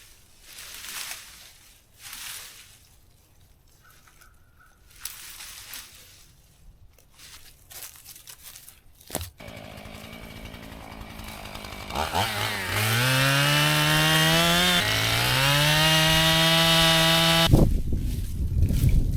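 Two-stroke chainsaw started, idling briefly, then revved up twice with a rising pitch before cutting off near the end. Before it starts there is only faint rustling and a few knocks.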